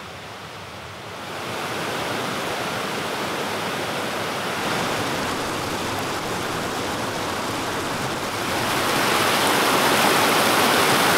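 Rain falling steadily, a dense even hiss that grows louder in two steps, about a second in and again near the end.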